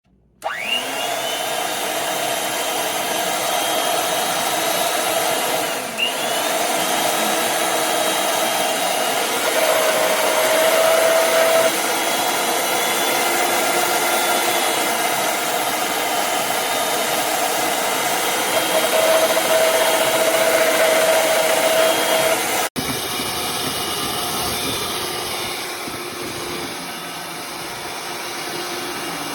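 Electric hand mixer running with its beaters in brownie batter, a steady motor whine with a whirring clatter. It starts up about half a second in, briefly drops and spins back up around six seconds in, and changes abruptly near the end, going on a little quieter.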